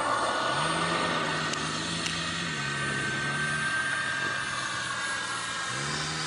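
KingTech K80 model jet turbine running in flight, a steady high whine with lower tones that rise and fall as the RC jet manoeuvres. A louder pass fades at the start.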